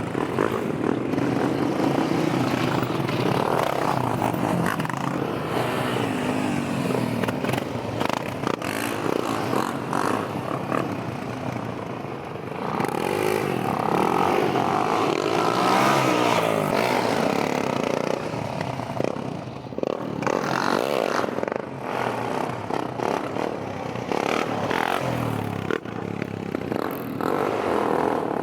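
Motorbike engines running and revving, with the pitch rising and falling as the throttle is worked; one rev climbs and drops back about halfway through.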